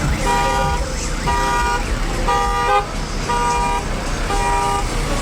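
A horn sounding in even, half-second beeps about once a second, like a car alarm, over a steady deep bass rumble.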